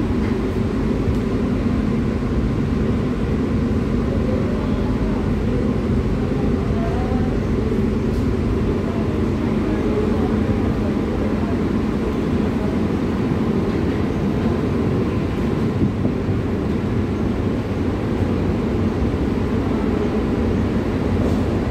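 Steady low rumble inside the carriage of an air-conditioned Mumbai Western Railway local train running along the line, at an even level throughout.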